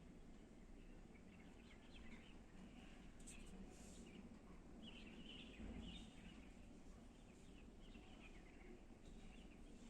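Faint birds chirping now and then over a quiet, steady low background hum.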